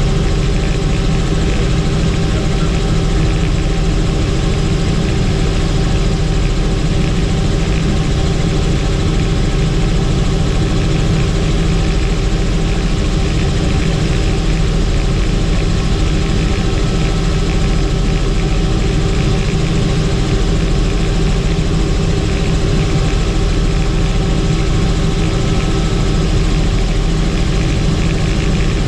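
Helicopter in flight: steady engine and rotor noise, heaviest in the low end, with several constant tones above it and no change throughout.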